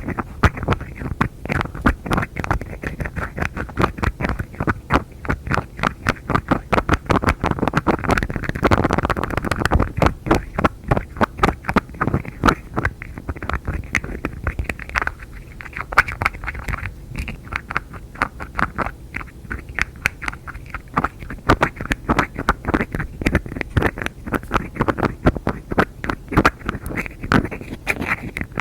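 Rapid light tapping of fingertips and nails on objects, many quick taps a second in an uneven stream, with a denser, more continuous scratchy stretch about eight seconds in.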